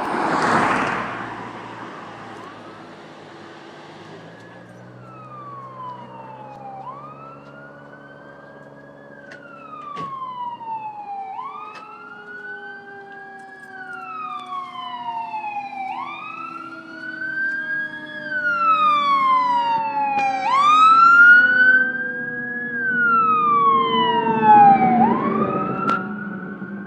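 Fire engine siren on a slow wail, rising and falling about every four and a half seconds and growing louder as the engine approaches. It opens with a brief loud noise burst, and there are louder peaks near the end.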